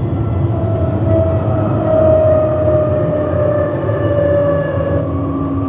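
Electric tram running on rails: a steady rolling rumble with a drive whine that glides slowly down in pitch as the tram slows.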